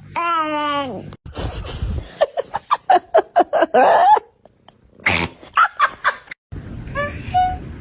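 A cut-together series of cat sounds: a drawn-out meow falling in pitch, then about three seconds of rapid laugh-like cackling, and a few short high chirps near the end.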